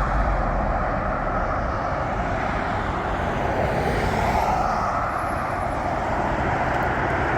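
Steady traffic noise from a road below, with a vehicle passing and swelling a little about four seconds in.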